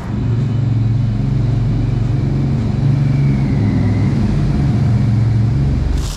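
A vehicle engine running steadily, a loud low hum that holds one pitch and cuts in and out abruptly.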